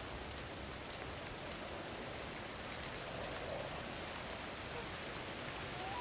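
Steady rain falling in a forest, an even hiss with a few scattered drop ticks.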